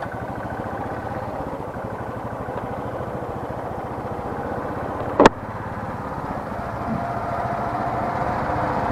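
Royal Enfield Classic 350's single-cylinder engine running as the motorcycle rides along, its firing pulses even and steady. There is one short sharp click about five seconds in, and the engine grows a little louder near the end.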